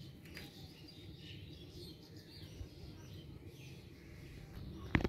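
Faint bird chirping in the background over a low steady hum, with one sharp click about five seconds in.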